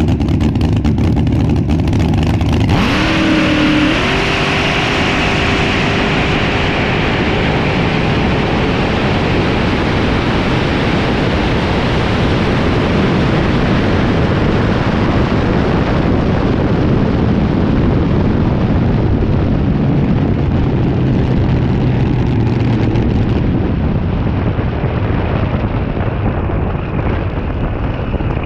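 Front-engine drag racing car's engine running loud and crackling, then rising in pitch about three seconds in as it pulls away, followed by a long steady rush of engine and wind noise that slowly grows duller.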